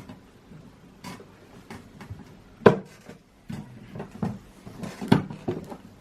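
Scattered knocks, clicks and light clatter of hands handling headlight parts and tools during reassembly, with two sharper knocks about two and a half and five seconds in.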